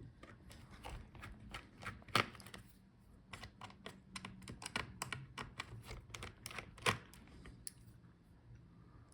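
Irregular small clicks and taps of a screwdriver working out the laptop's motherboard screws, with two sharper clicks about two and seven seconds in.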